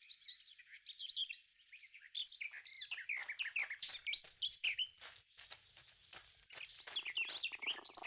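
Small songbirds chirping and twittering, a quick run of short high notes that grows denser from about two seconds in.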